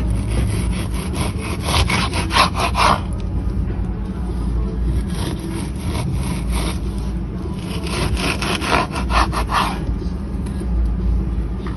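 Knife sawing back and forth through raw chicken breast, cutting it into strips: several bouts of quick, even strokes with short pauses between, over a steady low hum.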